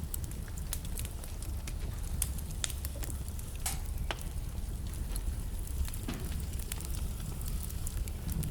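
Wood fire burning in a fireplace: a steady low rumble of flame with frequent sharp crackles and pops from the burning logs, a few louder pops standing out.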